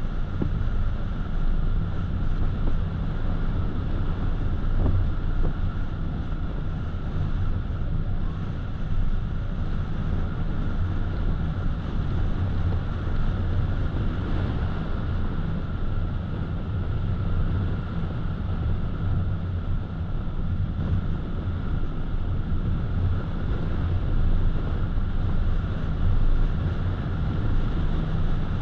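Steady road noise from a car driving along at speed: a low rumble of engine and tyres with hiss above it and a thin steady whine.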